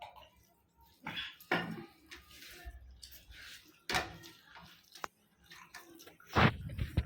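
Wet eating sounds of rice and fish curry being eaten up close, in irregular bursts, with a sharp click about five seconds in and the loudest burst near the end.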